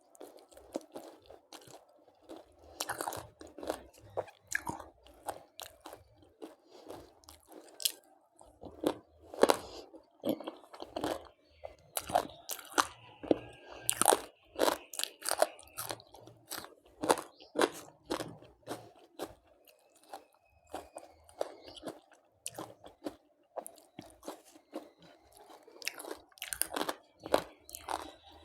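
Close-miked mouth sounds of eating crispy fried chicken: irregular crunching bites and chewing, with a run of louder crunches in the middle.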